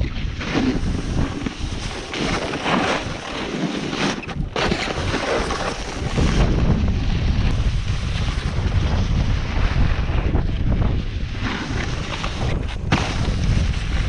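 Wind buffeting the microphone with a continuous rushing hiss, surging and easing every few seconds, as a snowboard slides and carves over snow.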